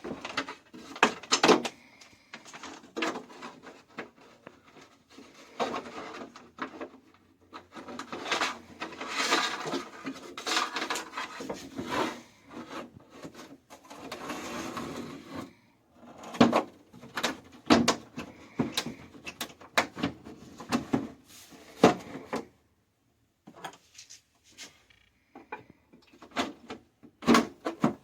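Irregular knocks, clicks and scraping as a Sansui CRT television is handled and its parts are fitted back together.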